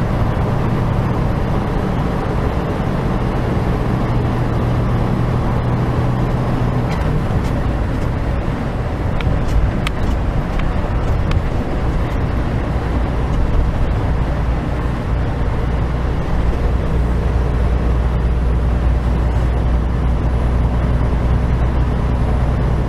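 Truck engine and road noise heard from inside the cab while driving, a steady low drone whose engine note changes about seven seconds in.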